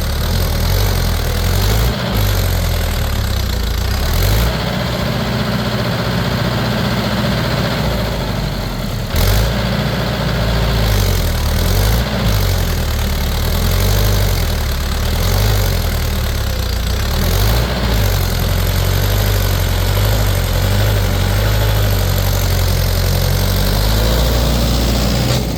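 A vehicle engine running loudly and steadily, its pitch rising and falling several times as it is revved up and down.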